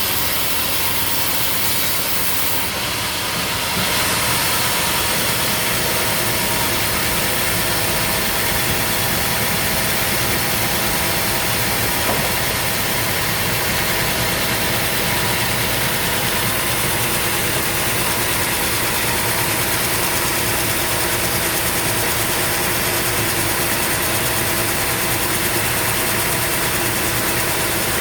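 Sawmill machinery running steadily: a continuous engine-driven mechanical noise, stepping up a little in level about four seconds in.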